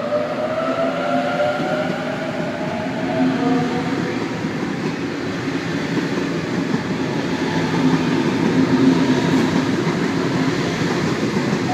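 Sydney Trains Waratah (A set) electric train pulling away: the traction motors whine, rising in pitch over the first few seconds, under a steady rumble of wheels on the rails.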